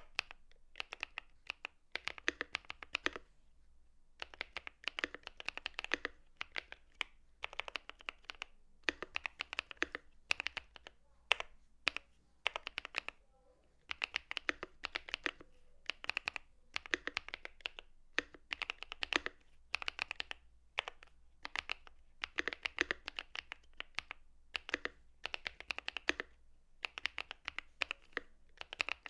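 Typing on a Monsgeek M3 aluminium TKL mechanical keyboard with pre-lubed KTT Matcha tactile switches on a polycarbonate plate and CMK ABS doubleshot keycaps: runs of quick keystrokes broken by short pauses.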